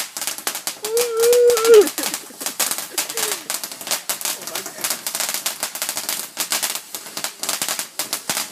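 Fireworks crackling: a rapid, irregular run of sharp pops and crackles throughout. About a second in, a person's drawn-out cheer rises over it and falls away.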